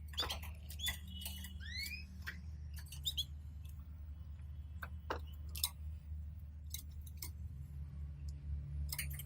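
Canaries in a cage give a few short rising chirps in the first few seconds, with scattered small clicks and taps throughout. A low steady hum runs underneath.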